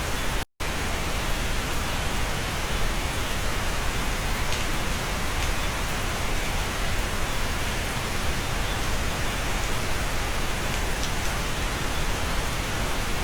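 Steady rain heard from inside a cabin: an even, dense hiss with a few faint drop ticks. The sound cuts out for an instant about half a second in.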